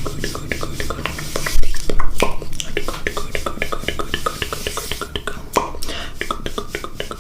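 Mouth sounds: a rapid, uneven run of wet tongue and lip clicks and smacks, several a second, with a louder pop about a second and a half in.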